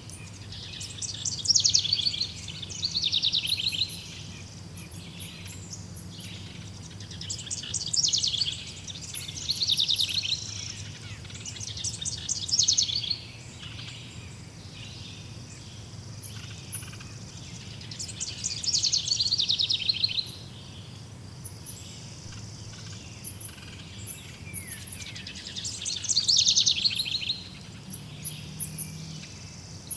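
Wild birds singing: rapid trilled phrases lasting a second or two, repeated every few seconds, with short thin high chirps in between, over a steady low hum.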